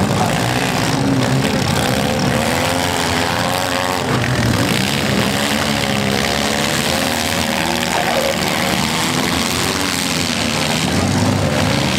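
Several compact derby cars' engines revving hard together, their pitches rising and falling and overlapping as the cars push and ram one another.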